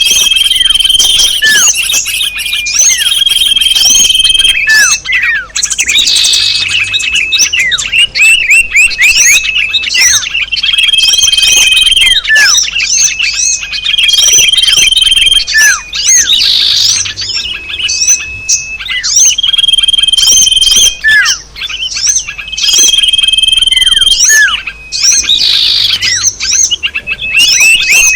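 Bird-lure recording mixing the calls of several small songbirds: rapid overlapping chirps, each falling in pitch, with pairs of held high whistles about a second long. The whole mix repeats every nine or ten seconds as a loop.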